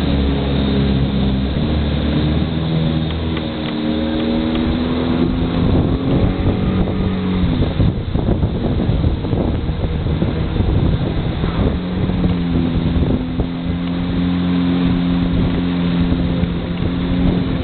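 Motorboat engine running, its pitch shifting up and down in places, with a rushing noise covering it for several seconds in the middle.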